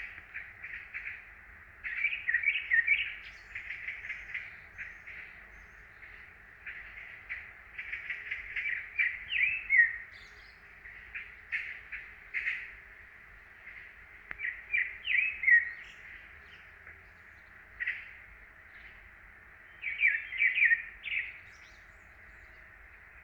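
Songbirds in spring woodland singing: bouts of quick high chirps and short falling whistles, each bout lasting a second or two, with brief pauses between them.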